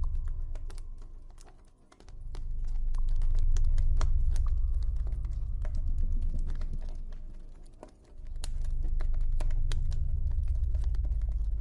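Campfire crackling, a steady run of irregular sharp pops and snaps, over a deep ambient drone. The drone is the loudest part; it fades away about two seconds in and again about eight seconds in, then swells back.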